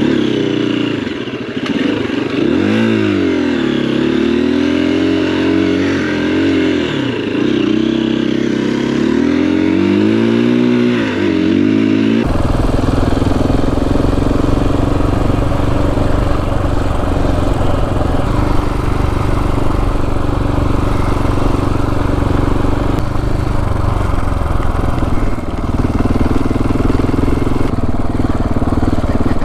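Single-cylinder dual-sport motorcycle engine under way on a dirt trail, revving up and down as the throttle opens and closes. After an abrupt change about twelve seconds in, it runs more steadily with more low-pitched noise.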